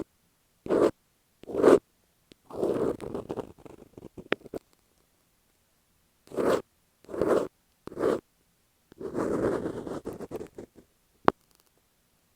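Fingers rubbing and scratching masking tape stuck on an earphone microphone, heard very close. There are three short swipes, then a longer rough scratch, three more short swipes and another long scratch, with a sharp click about four seconds in and another near the end.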